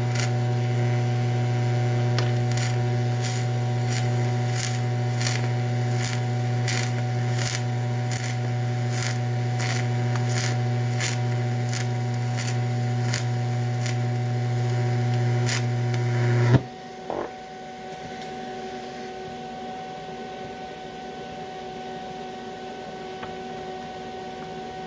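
TIG welding arc on aluminum, run on direct current electrode positive: a loud steady buzz with regular sharp crackles, a little under two a second. The arc cuts off suddenly about two-thirds of the way through, leaving a quieter steady hum.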